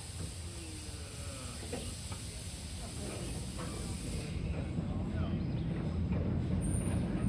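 Low rumble of a ride-on miniature railroad train getting under way, growing louder as it picks up speed.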